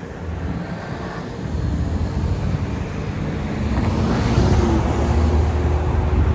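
Road vehicle passing close by: engine rumble and tyre noise growing louder over the seconds, with a faint steady whine joining about four seconds in. Wind buffets the microphone.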